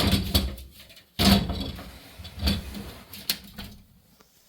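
A few knocks and thumps, the loudest about a second in, fading out near the end.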